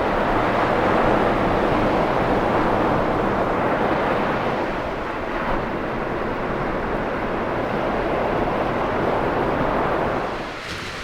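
Steady rush of ocean surf with wind on the microphone, swelling and easing slowly.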